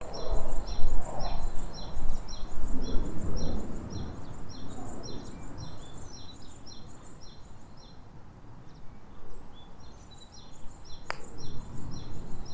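Outdoor ambience: a bird chirping over and over, a few short high chirps a second with a pause in the middle, over a low rumbling noise. One sharp click near the end.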